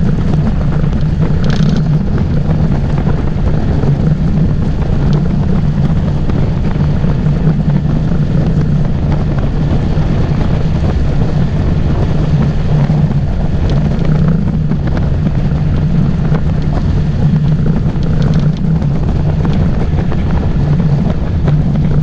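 Motorboat engine running steadily under way, a constant low hum under heavy wind noise on the microphone.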